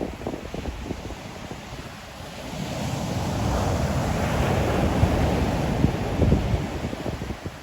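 Ocean waves breaking on the shore: one wave's wash swells up about a third of the way in, peaks, and recedes near the end, with wind rumbling on the microphone throughout.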